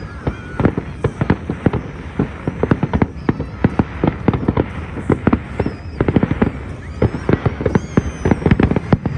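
Aerial fireworks display: a rapid, overlapping barrage of bangs and crackles, growing denser about six seconds in.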